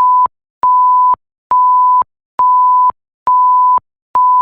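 Electronic bleep tone at one steady pitch, repeated in half-second beeps a little more than once a second with dead silence between: a censor bleep dubbed over the sound track.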